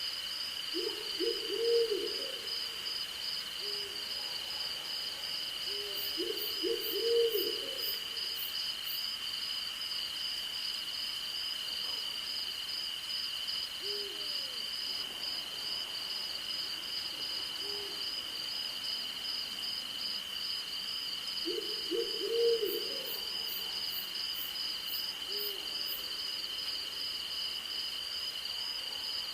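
Owl hooting in quick runs of three or four short notes, three times, with single fainter hoots between. Behind it a steady insect chorus: one continuous high trill and a faster pulsing trill above it, with brief series of very high ticks twice.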